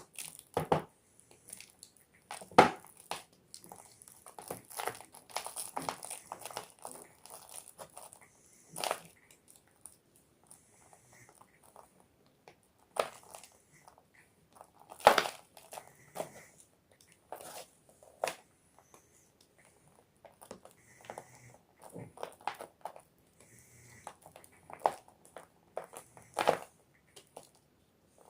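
A block of gym chalk being crushed and crumbled, a run of dry crunches and crackles with pauses between, loudest about two and a half seconds in and about halfway through.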